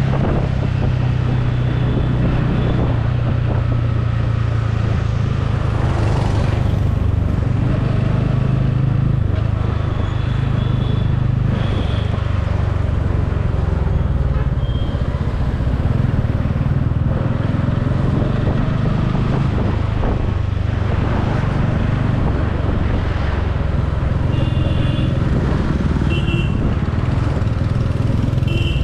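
Motorcycle engine running steadily while riding in traffic, with road and wind noise. A few short high-pitched tones sound over it, several of them near the end.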